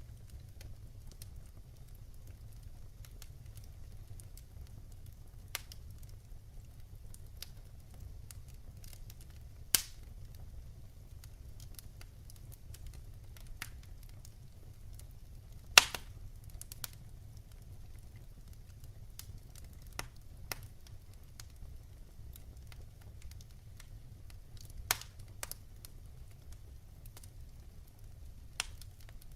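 Wood fire burning in a fireplace: a steady low rumble with scattered crackles and sharp pops, the loudest pop about halfway through.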